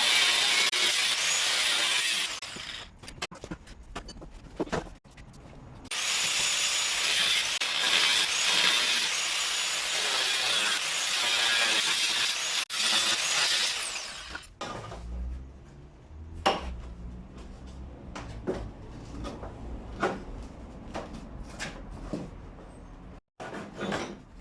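Power tool cutting into an old electric water heater in two long runs, the second about twice as long as the first, followed by scattered short knocks and clicks.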